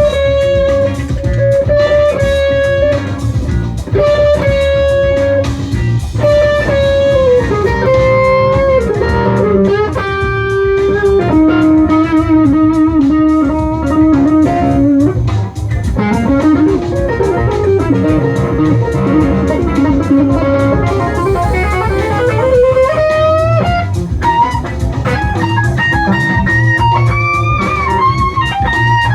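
Jazz-funk fusion instrumental: an electric guitar plays a lead line with bent and sliding notes over bass and drums.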